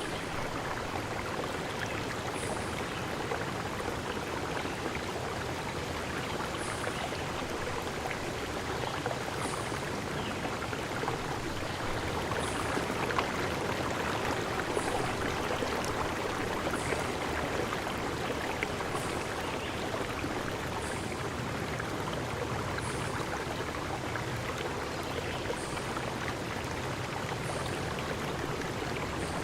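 Water of a stream rushing steadily. A short, very high chirp repeats about every two seconds above it.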